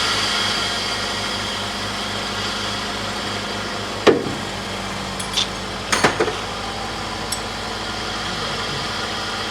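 Toyota Corolla engine running at a steady idle just after being started, following work on its tappets. Sharp clicks or knocks stand out about four and six seconds in.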